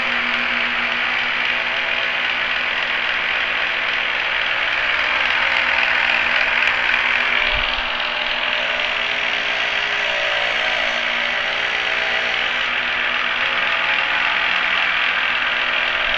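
Key duplicating machine running steadily, its cutter wheel cutting a key blank.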